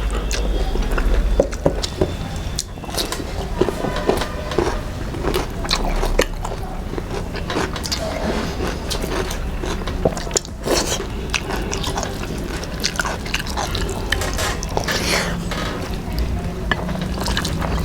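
A person chewing and biting food, with many small wet mouth clicks and smacks: eating rice mixed with dal and a mashed-vegetable bharta.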